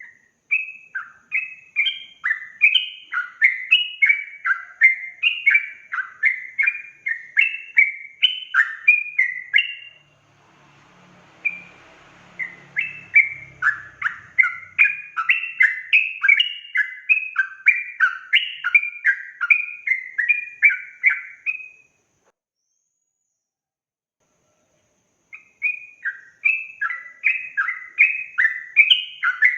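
Yellow-vented bulbul (trucukan) singing a fast, continuous run of bright, bubbling notes, about two a second. The song breaks off about ten seconds in and again after about twenty-two seconds, then starts again near the end.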